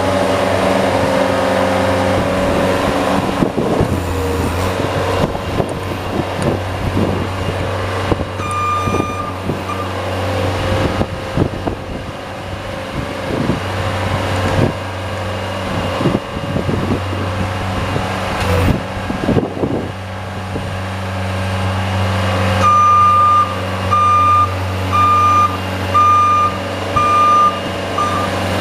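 Snow-plow vehicle engine running steadily, with scattered knocks and scrapes, and near the end a backup alarm beeping six times, a little under once a second.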